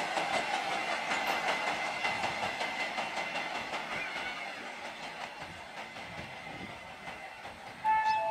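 Loaded freight wagons rolling away on steel rails, the rattle and rumble of their wheels fading steadily as the end of the train draws off. Near the end a sudden, louder horn-like tone cuts in.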